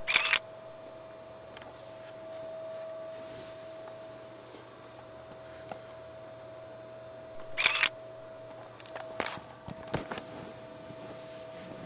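Camera shutter firing twice, about seven and a half seconds apart, each a short clatter, with a few fainter clicks later and a steady faint hum behind.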